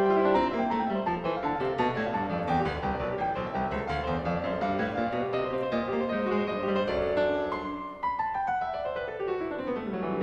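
Piano music playing quick runs of notes, with a long run stepping down in pitch near the end.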